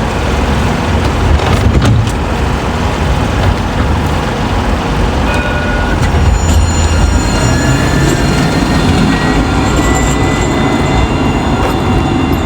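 Nottingham tram running with a steady low rumble, its electric drive adding thin whines from about halfway, one rising slightly in pitch.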